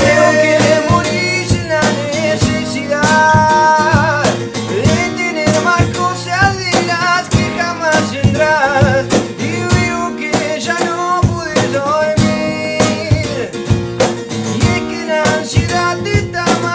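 Band music: guitar with drum kit, playing on with a steady beat.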